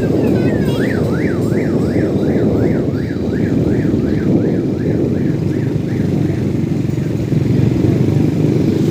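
A siren sweeping rapidly up and down in a fast yelp, about three sweeps a second. It fades out after about six seconds, over a loud, steady low rumble.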